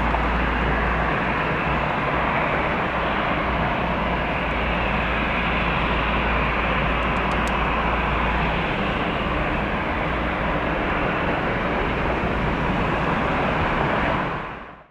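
Steady rushing jet-engine noise of an airliner on the runway, fading out near the end.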